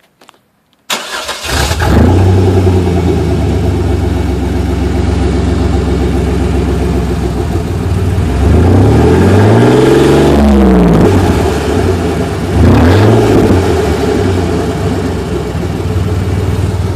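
1996 GMC Jimmy's 4.3-litre V6 starting with its exhaust removed, catching about a second in and idling loud and open. About halfway it revs once, rising and falling back, with a shorter blip a few seconds later before it settles to idle again.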